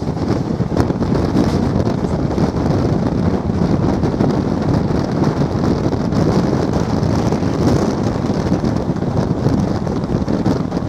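Wind rushing over the microphone from a moving passenger train, over the steady rumble of the train running at speed.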